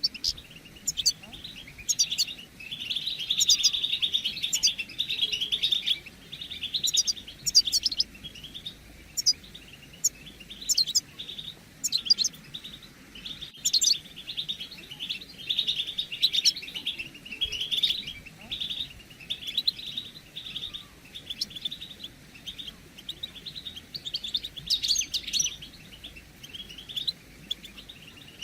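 A group of European goldfinches calling and twittering in repeated bursts of quick, tinkling notes with sharp high pips. These are the chattering call notes that stimulate caged male goldfinches to sing.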